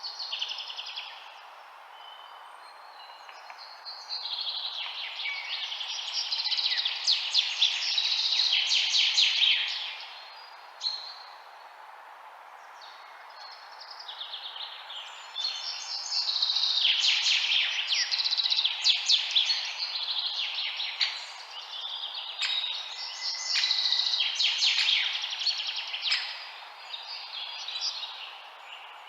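Many birds chirping and twittering in dense bouts that swell and fade several times, over a steady background hiss.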